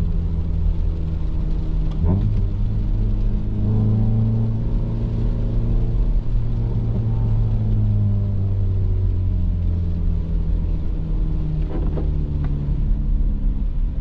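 Mitsubishi Eterna's engine running steadily. Its pitch steps up about two seconds in, rises a little through the middle and eases back down later. There are a few short clicks about two seconds in and again near the end.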